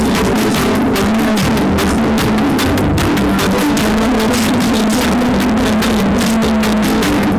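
Loud music with heavy bass and a steady beat, played through a competition car sound system.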